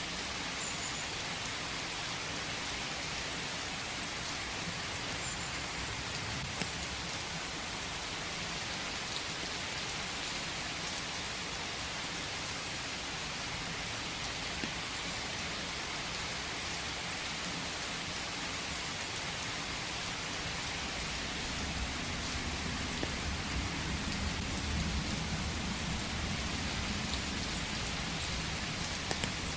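Steady rain falling in a forest, an even hiss with scattered drop ticks. A low rumble builds underneath in the last third.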